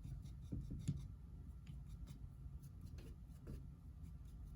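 Paintbrush strokes of thick-bodied acrylic paint on canvas: faint scratchy brushing, with a few soft dabs about half a second in and again about three seconds in, over a low hum.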